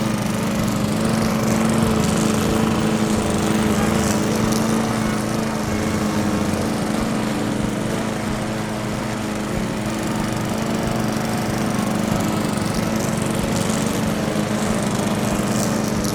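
Small motor of a DIY mini tractor running steadily with a buzzing hum.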